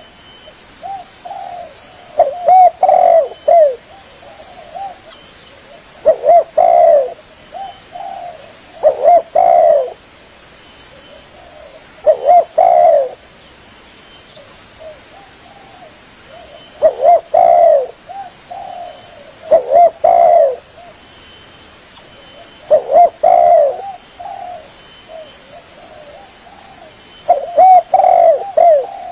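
Spotted dove (tekukur) singing its cooing song: a loud phrase of several rolling coos repeated about every three seconds, with softer single coos in between, used as a lure call.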